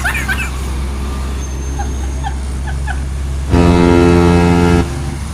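A heavy vehicle's engine runs with a steady low rumble. About three and a half seconds in, a vehicle horn sounds one loud, steady blast lasting just over a second.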